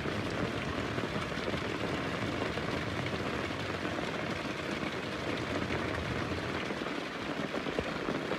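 Heavy rain falling steadily, a dense even hiss of drops with no single louder event.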